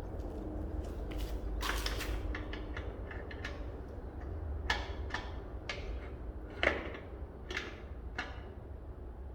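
A run of sharp knocks and clacks, with a quick cluster about two seconds in and single knocks spaced through the rest, the loudest a little past the middle, over a steady low hum.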